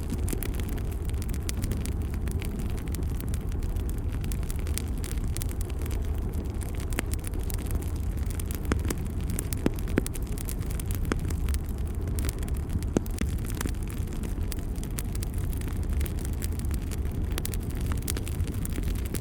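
Wood fire burning in a fireplace: frequent sharp crackles and pops from the burning logs over a steady low rushing of the flames.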